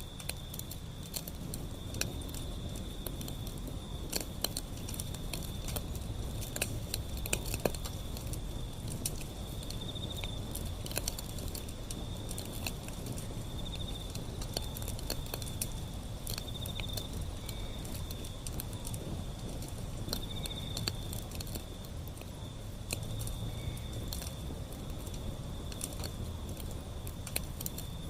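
Wood fire burning, with irregular crackles and pops over a low rumble of the flames. A steady thin high tone runs underneath and swells every few seconds.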